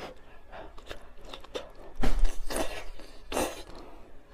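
Close-miked eating of spicy noodles: chewing and small wet mouth sounds, with a knock about two seconds in followed by two louder airy bursts.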